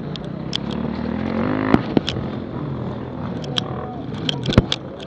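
Dirt bike engine revving up to a peak and then easing back, with sharp clicks and knocks scattered throughout, the loudest near the end.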